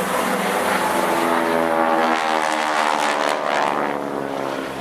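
The four-cylinder, roughly 180 horsepower piston engine and propeller of an RAF Grob Tutor light aircraft flying a display pass. The engine note sweeps in pitch as the plane passes closest, about three seconds in.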